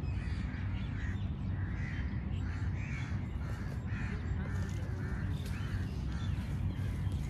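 Birds calling over and over, about two short calls a second, over a steady low rumble.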